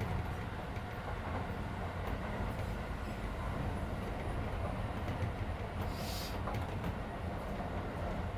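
Keisei 3400 series electric train running at speed, heard inside the car: a steady rumble of wheels on rail. A brief hiss comes about six seconds in.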